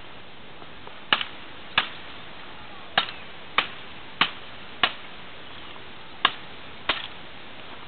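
Firewood being chopped by hand, about eight sharp blade strikes into wood: a pair, a run of four evenly spaced blows, then another pair.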